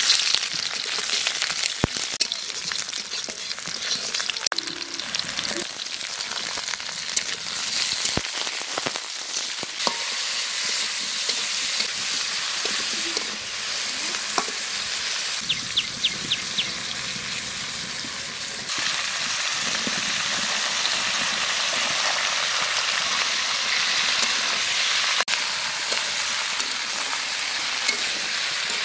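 Sliced vegetables (brinjal, potato and flat beans) sizzling in hot oil in an iron kadai, with a steady frying hiss. A metal spatula stirs them, scraping and clicking now and then against the pan.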